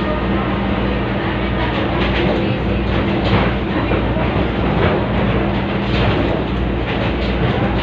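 Diesel passenger train running, heard from on board: a steady low engine drone under the rumble of the cars, with irregular clacks as the wheels pass over rail joints.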